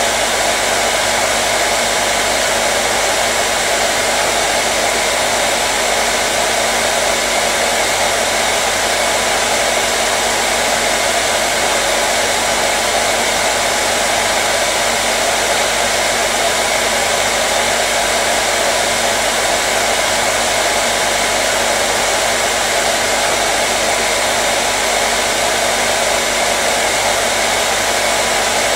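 Hair dryer running steadily, an unchanging whooshing rush of air with a faint steady motor hum.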